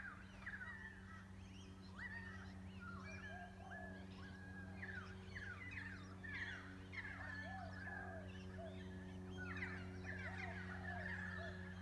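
A flock of unidentified birds calling together in a dense chorus of quick overlapping chirps and sweeping notes that sound strange and far away. A steady low hum runs underneath.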